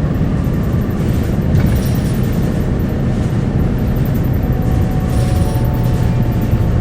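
Isuzu Erga city bus (QKG-KV290N1) running, heard inside the cabin: a steady low engine and road rumble. A faint whine comes in about four and a half seconds in and fades about two seconds later.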